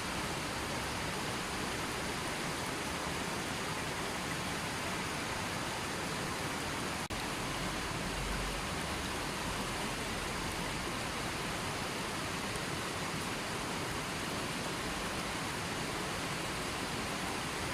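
River water flowing in a steady, even rush, with a brief dropout about seven seconds in.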